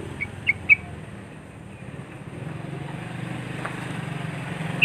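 Yellow-vented bulbul (trucuk) giving three short, sharp chirps in quick succession within the first second, over a steady low hum of traffic.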